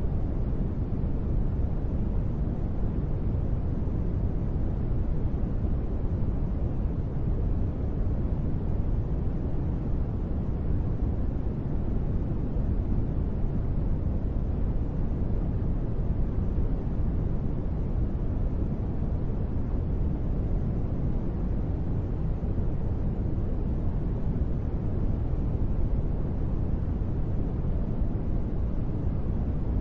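Steady, unbroken sleep noise, deep and rumbling with little hiss on top and no changes or separate drops, sold as gentle rain white noise.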